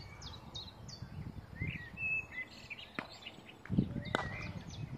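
A bird singing a run of quick repeated chirps over steady outdoor noise, with a sharp knock about three seconds in and another about a second later.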